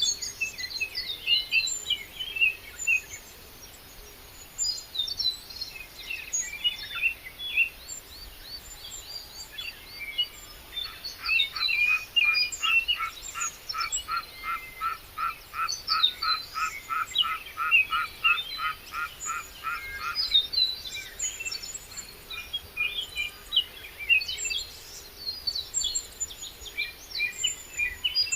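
Several birds chirping and singing. From about eleven to twenty seconds in, a steady run of one repeated call, about three a second, sounds alongside them.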